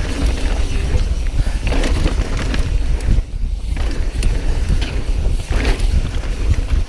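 Wind buffeting the microphone of a camera riding on a mountain bike, with tyres running over a dirt trail and scattered short clicks and knocks from the bike over bumps; the noise eases briefly about three and a half seconds in.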